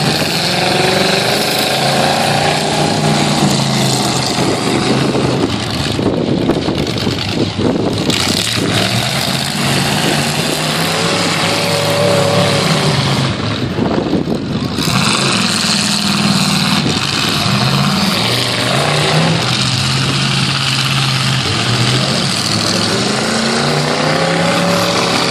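Several pickup truck engines revving hard in a demolition derby, pitch rising and falling again and again over a steady noisy din.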